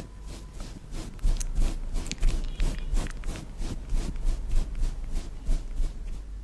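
Close-miked ASMR trigger sounds: a run of even scraping or tapping strokes, about three a second, starting a little over a second in.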